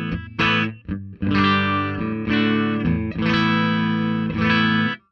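Electric guitar strumming chords in a clean tone, played for a compressor pedal demonstration: about five chord strikes roughly a second apart, each ringing until the next, cut off just before the end.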